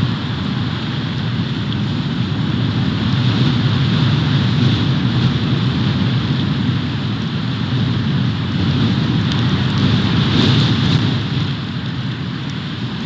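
Snowstorm wind blowing on an outdoor nest-cam microphone: a steady, loud rushing with a low rumble, swelling a little about ten seconds in and easing near the end.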